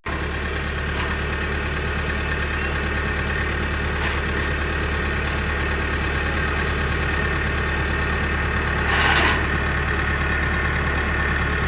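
A vehicle engine idling steadily with a low, even hum, with a brief noisy burst about nine seconds in.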